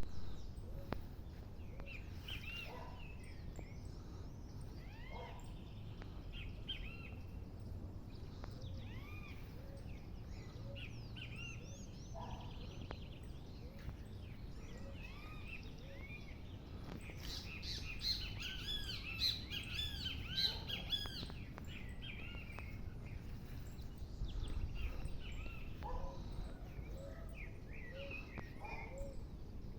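Several birds chirping and calling, with short arched chirps throughout and a dense burst of overlapping calls about two-thirds of the way through, over a steady low background rumble.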